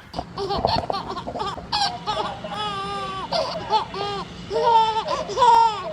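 A baby laughing in a run of short giggles.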